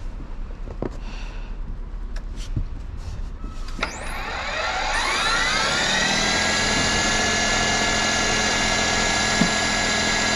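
Snowblower starting up about four seconds in: its engine speeds up over about two seconds, then runs steadily.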